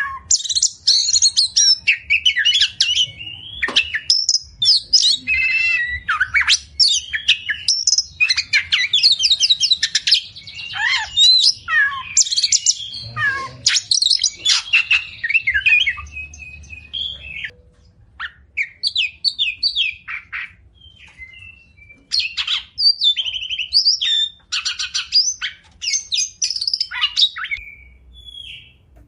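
Oriental magpie-robin (kacer) singing a long, varied song of clear whistles, rapid trills and harsh squawking notes. The song thins out and goes quieter for a few seconds past the middle, then picks up again.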